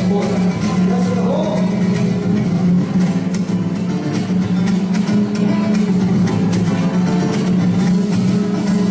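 Mariachi band playing, with strummed guitars keeping a steady rhythm over a held low note.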